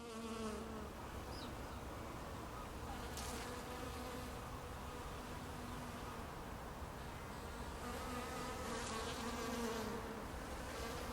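A steady, faint buzzing hum, its pitch wavering slightly.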